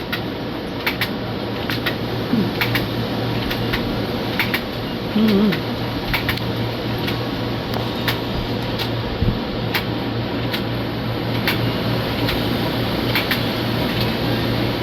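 A steady mechanical hum, like a fan or air-conditioning unit, with scattered sharp clicks at irregular intervals.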